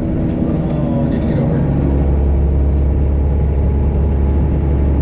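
Straight-piped Detroit Diesel 12.7 in a Freightliner Classic XL semi truck running on the road, a steady low drone that grows deeper and steadier about two seconds in.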